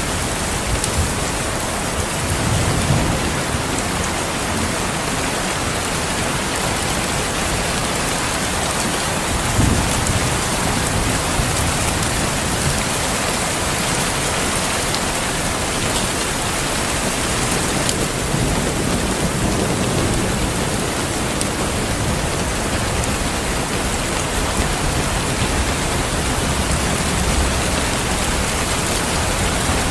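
Steady heavy rain falling, with low rolls of distant thunder several times, the strongest about ten seconds in.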